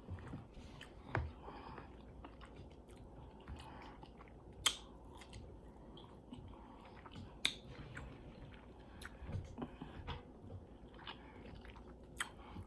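Close-miked chewing of food with wet mouth sounds, broken by a few sharp crunchy clicks, the clearest about a second in, midway and about three-quarters through.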